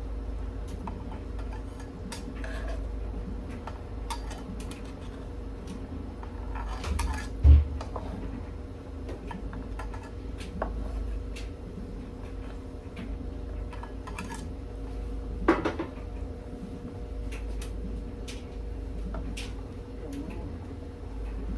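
Pots, pans and utensils clinking and clattering as the cooking goes on, with a heavy knock about seven seconds in and a sharper clank around fifteen seconds. A steady low hum runs underneath.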